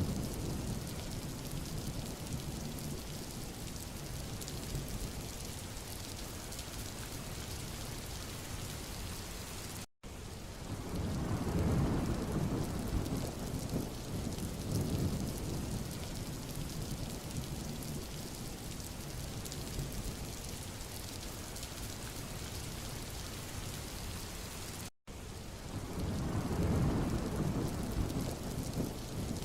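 Steady rain falling on a road, an even hiss. The sound cuts out completely for a split second about ten seconds in and again near the end, and after each cut a low rumble swells up for a few seconds.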